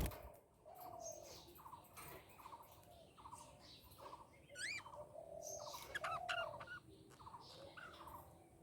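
Budgerigars chirping softly: a run of short, buzzy chirps repeating throughout, with a whistle that rises steeply in pitch about four and a half seconds in.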